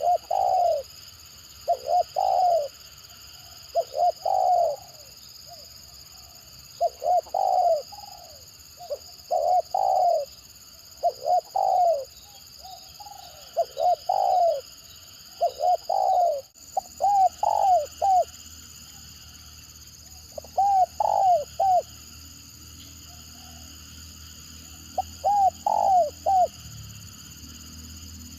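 Spotted dove cooing in a stuttering rhythm: short, broken phrases of two to four low coo notes, repeated every second or two. There is a longer pause before a last phrase near the end, over a steady faint high-pitched background hiss.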